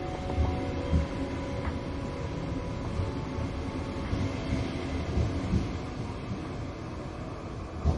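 Train running on the rails: a steady low rumble with irregular low thuds, and two sharp knocks near the end. Faint held music notes fade out in the first few seconds.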